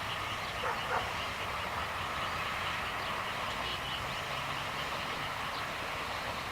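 A dog barks twice about a second in, over a steady background noise.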